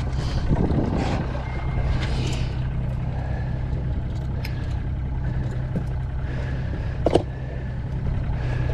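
Boat's outboard motor idling with a steady low hum, under handling noises from the crew. One sharp knock about seven seconds in.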